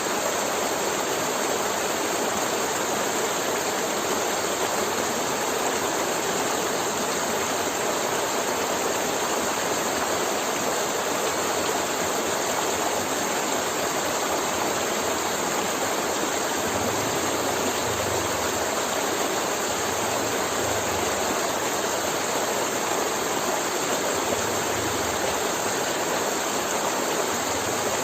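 A forest river flowing, its water rushing steadily without a break.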